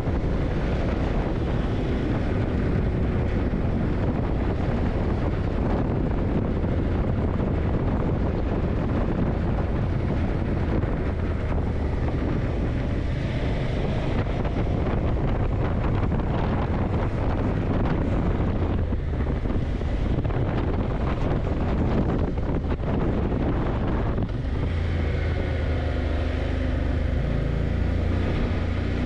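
Yamaha TDM900 parallel-twin engine running while riding, heavily mixed with wind buffeting the microphone. About 25 seconds in, the engine's low steady note comes through more clearly.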